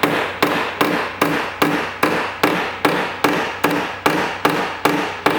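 Steady, even hammer strikes on a BMW 525i's steel rear body panel during dent repair, about two and a half blows a second, each with a short metallic ring.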